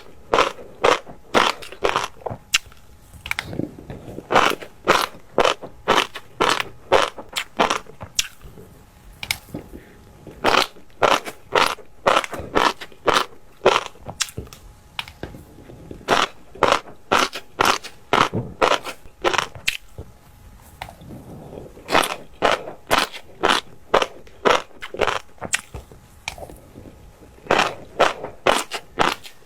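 A person chewing mouthfuls of fish roe close to the microphone: sharp crisp clicks, about two to three a second, in runs broken by short pauses.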